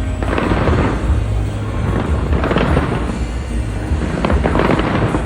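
Fireworks going off: three spells of dense crackling, each about a second long, over a steady low rumble of booms.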